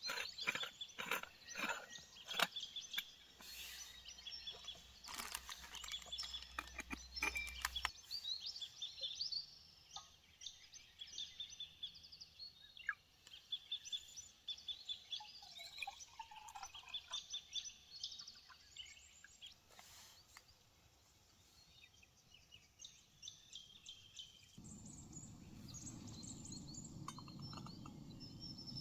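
Birds calling and chirping, with a run of clicks and clatter over the first eight seconds as camp cooking gear is handled. About 25 seconds in, a steady low rushing starts: a camp stove burner lit to heat water for coffee.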